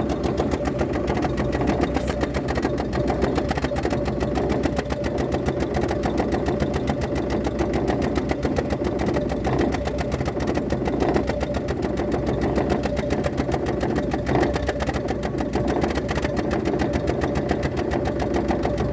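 Lada Kalina engine idling steadily with a fast, even pulsing. The throttle body has just been cleaned and the rubber hoses where a vacuum leak was suspected have been replaced.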